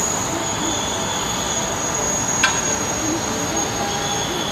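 Steady rushing cabin noise of an Airbus A380 in operation, engines and air flow together, with a thin constant high tone over it. A single sharp click about halfway through.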